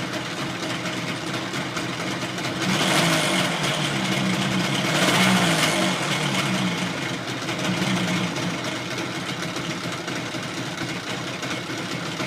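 Suzuki RG250E two-stroke twin engine idling, swelling louder twice, about three and five seconds in. The idle sits a little low, which may be because the engine is not yet warmed up.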